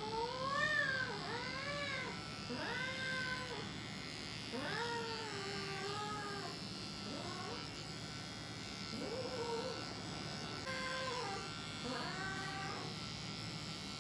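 Grey cat giving about eight drawn-out meows, each rising and then falling in pitch, over the steady buzz of electric hair clippers shaving its fur. These are the bird-like cries of a cat upset at being clipped.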